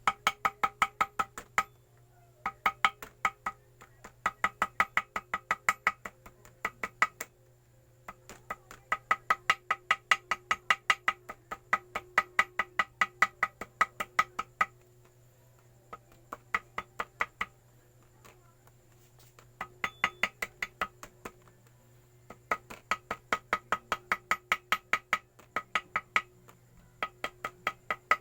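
Rapid light hammer taps, about six a second, in runs of a few seconds with short pauses, each tap a sharp ringing knock: a small hammer tapping gasket paper against the engine's sealing face to cut out a homemade gasket.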